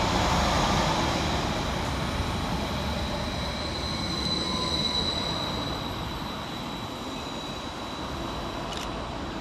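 Class 231 Stadler FLIRT diesel multiple unit running past and pulling away, its wheels rumbling on the rails with a thin, high, steady wheel squeal. The sound is loudest as the train goes by and fades as it draws off.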